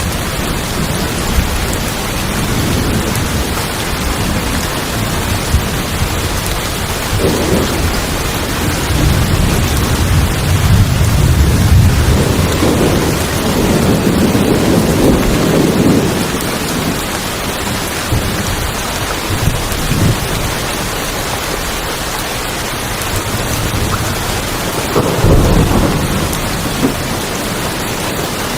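Steady heavy rain falling on tin roofs, with thunder rumbling low for several seconds about a third of the way in and again briefly near the end.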